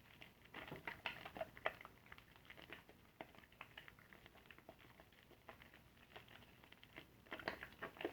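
Soapy car sponge being squeezed and worked in lather, giving faint wet crackling and squishing. It is busiest from about half a second to two seconds in and again near the end.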